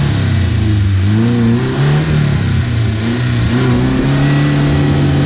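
Off-road vehicle's engine revving up and down repeatedly, its pitch rising and falling several times.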